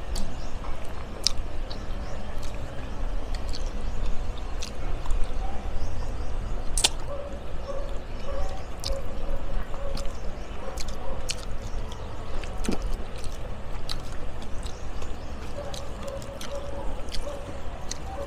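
Eating sounds: people chewing and smacking as they eat rice and fish by hand, with scattered small clicks, over a steady low rumble.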